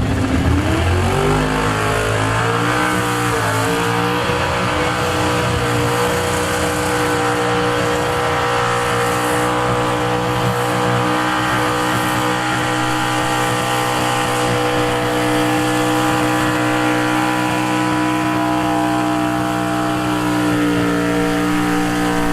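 Small-block super stock pickup truck engine at full throttle under load during a pull: revs climb over the first few seconds, then hold steady at high rpm and start to drop near the end.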